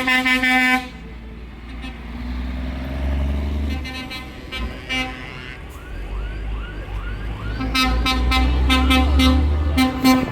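Vehicle horns tooting over the low rumble of passing engines: one horn blast at the start, then a quick run of short toots near the end.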